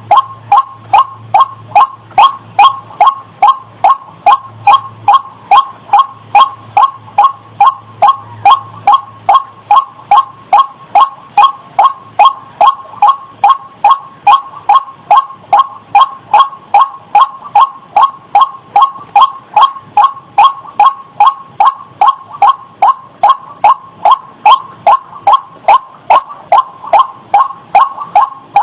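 White-breasted waterhen (ruak) calling: one sharp note repeated over and over, about two a second, in an even rhythm. It is a recorded call played as a lure for trapping birds.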